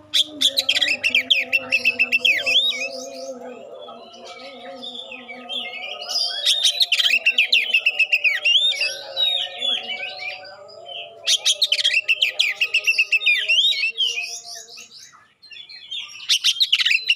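Oriental magpie-robin (kacer) singing in four bursts of fast, sharp, clear whistled notes, with short pauses between the phrases.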